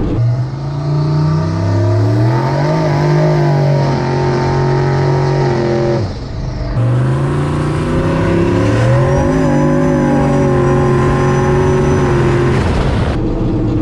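Turbocharged 5.3 L LS V8 in a square-body C10 pickup accelerating hard twice, heard from inside the cab: engine pitch climbs and then holds as the rear tires spin on the snow. The engine note drops briefly about six seconds in before the second pull, and a high whine joins in during that pull.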